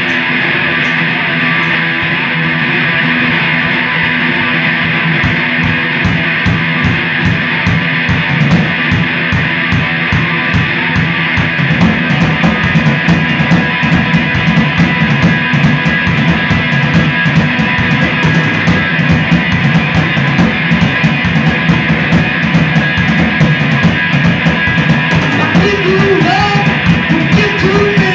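A live rock band playing loudly: electric guitar, bass and drum kit. The drumming gets busier about twelve seconds in, and a voice comes in singing near the end.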